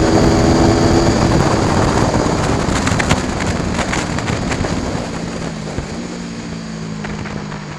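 Aprilia Tuono V4 1100 Factory's V4 engine with wind rushing over the microphone. The engine's pitched note drops away after about a second and the sound slowly gets quieter, leaving a low steady engine tone for the last few seconds.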